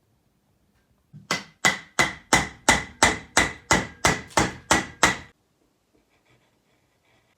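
A carving mallet striking a chisel or gouge into wood: about a dozen sharp, evenly paced blows, roughly three a second, each with a short ring, starting about a second in and stopping after about four seconds.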